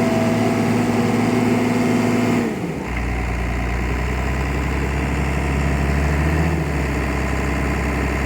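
Case 850K crawler dozer's diesel engine running steadily. About two and a half seconds in, the engine speed drops to a lower, steady note.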